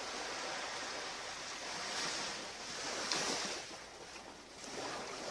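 Ocean surf washing on a beach: a steady rush of waves that swells twice in the middle, eases off, then builds again near the end.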